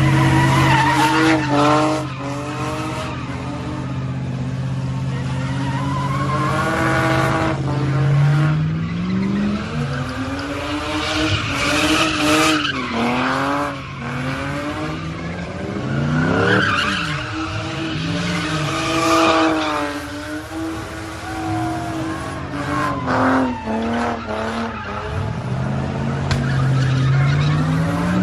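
Car engines revving hard with tires screeching as cars spin donuts and burnouts. One engine is held at high revs for the first several seconds, then the engine pitch swings up and down again and again, at times two engines at once.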